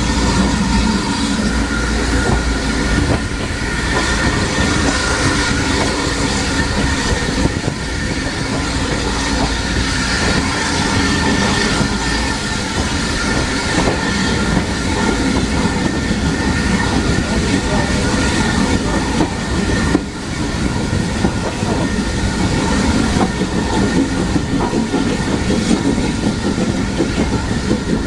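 Heritage railway train running along the line, heard from aboard: a steady rumble with wheels clicking over the rail joints.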